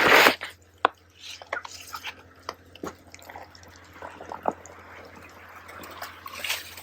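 Snow being scraped off a polytunnel's plastic cover with a garden hoe. A brief rush of sliding snow at the very start, then scattered light taps and drips.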